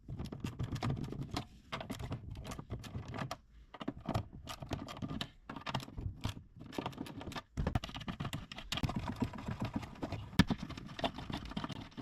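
Rapid, irregular clicking and clattering of car parts and tools being handled as trim is taken apart.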